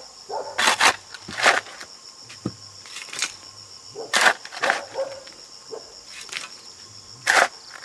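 Insects chirring steadily at a high pitch in the background, broken by about five short, loud noises at uneven intervals.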